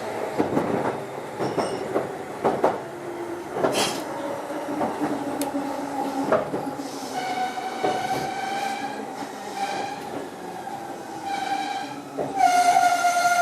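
Meitetsu 6900 series electric train running at low speed, its wheels clacking irregularly over rail joints and points. About halfway through, a steady high squeal joins in and grows much louder near the end.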